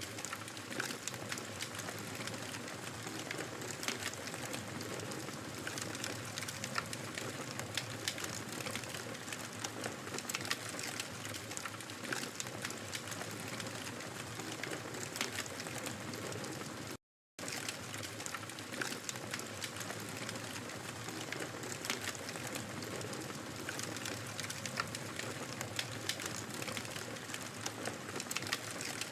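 Wood fire in a fireplace crackling steadily, with many small pops and snaps over a soft hiss. It drops out to silence for a split second about seventeen seconds in.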